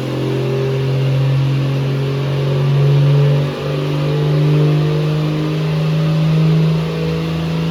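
Swapped Toyota 1JZ 2.5-litre straight-six in a 1980 Corolla wagon running at raised revs. The loudness swells and eases every second or two, with a brief dip in revs about three and a half seconds in.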